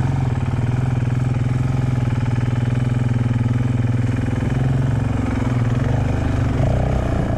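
Honda CRF450X dirt bike's single-cylinder four-stroke engine pulling under throttle at a fairly steady pitch, which drops near the end as the rider eases off.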